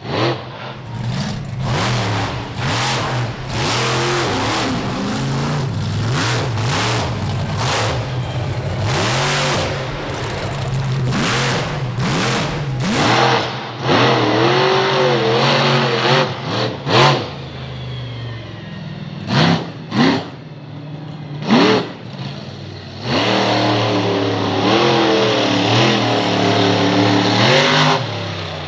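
Monster truck engine revving hard during a freestyle run, its pitch repeatedly rising and falling as the throttle is blipped, with several short loud bursts in the second half.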